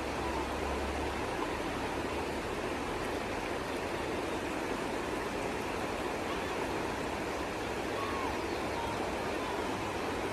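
The Anisacate River flowing: a steady, even rush of running water.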